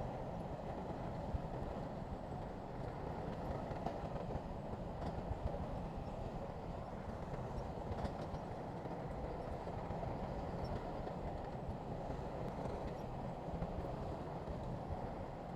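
Heavy diesel earthmoving machinery running steadily, a continuous low rumble with a few faint clanks.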